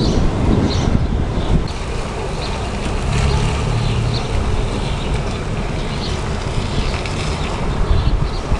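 Wind gusting across the microphone during a thunderstorm: a steady, dense low rumble.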